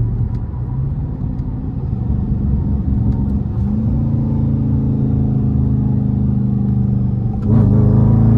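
A 5.7-litre HEMI V8 in a Mopar R/T accelerating under a pull. The engine note steps up in pitch about three and a half seconds in, then gets louder and climbs near the end.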